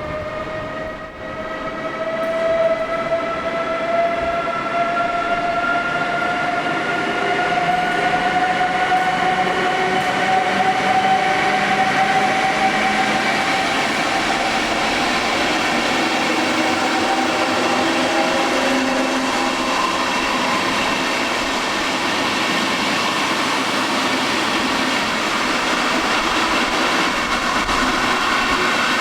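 Electric train's traction motors whining as it accelerates, the pitch rising slowly and steadily, over the rumble of wheels on the track.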